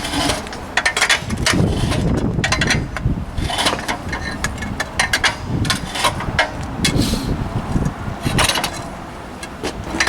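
A heavy rear axle assembly being slid and shifted by hand: a run of metal scrapes, knocks and clanks, with heavy low rumbles as it moves.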